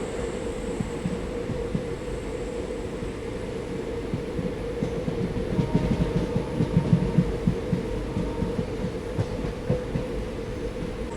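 Passenger train running along the line: a steady rumble and rattle of wheels on rails with a constant hum, growing louder for a couple of seconds in the middle.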